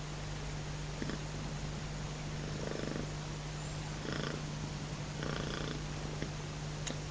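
Domestic cat making short, rattling, purr-like calls that sound like a velociraptor, three of them in the middle of the stretch, over a steady low hum.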